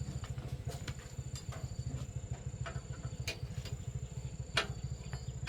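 A machine running with a steady, fast low throb, with several sharp clicks or taps now and then; the loudest tap comes about four and a half seconds in.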